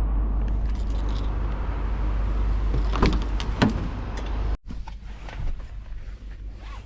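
Diesel engine of a Renault T480 lorry idling as a steady low hum heard inside the cab, with a few clicks and rattles about three seconds in. A little past halfway the sound cuts off abruptly, leaving a quieter background with scattered small knocks.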